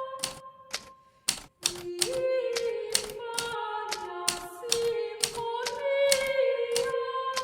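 Hermes Baby portable typewriter keys striking at an uneven typing pace, with a short pause about a second in followed by two loud strikes. Soft background music with long held notes plays underneath.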